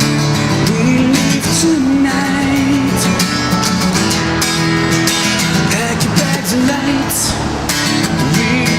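Acoustic guitars strumming in a band's acoustic song, with a voice singing a melodic line over them.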